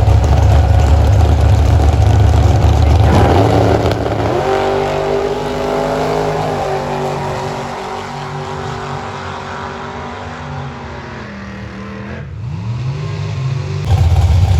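Drag-racing car engines: a loud, deep rumble for the first few seconds, then engine tones that hold and shift in pitch while slowly fading. The deep rumble comes back suddenly near the end.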